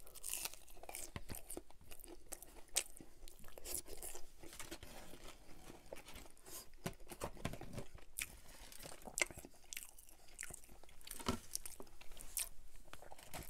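Close-up chewing and biting of McDonald's Chicken McNuggets, with crunches and irregular clicking mouth noises.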